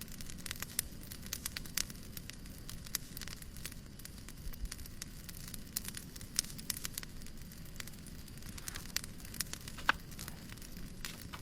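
Wood fire crackling, with frequent irregular snaps and a sharper pop near the end, over a steady low hush.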